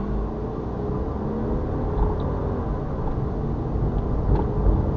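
Ford Fusion 1.4 petrol engine running steadily under load as the car climbs a hill, heard from inside the cabin with road rumble. The engine keeps pulling on the hill where it used to stall, which the owner puts down to a failing evaporative-emissions purge solenoid that is now sorted.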